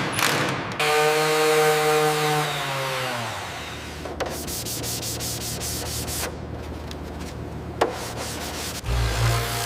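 Rust-removal sanding and rubbing noise. A power tool's motor tone winds down and fades about three seconds in. Rapid rasping and ticking follow, and a new low hum starts near the end.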